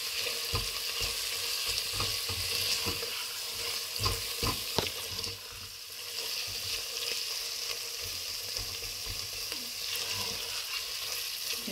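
Grated carrots and khoya sizzling in ghee in a metal pan while a spoon stirs and scrapes through them, with scattered knocks of the spoon against the pan. The ghee has separated from the carrots, the sign that the halwa is fried through and nearly done.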